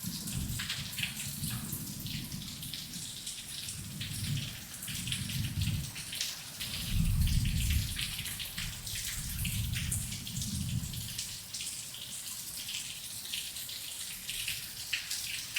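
Heavy rain falling steadily with a dense patter of drops. Low rolls of thunder rumble in and out beneath it, loudest about seven seconds in and fading away in the last few seconds.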